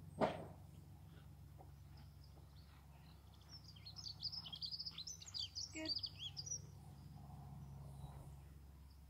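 A single sharp click just after the start, then about three seconds of small birds twittering in quick, high chirps, over a steady low background hum.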